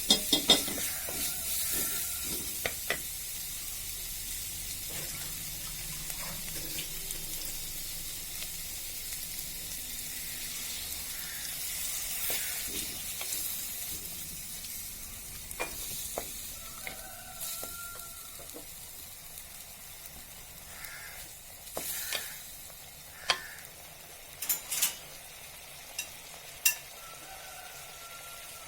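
Aval upma (flattened rice) sizzling in a hot pan while a spoon stirs it, with scraping and sharp clicks of the spoon against the pan. The sizzle slowly quietens, and the spoon clicks come more often near the end.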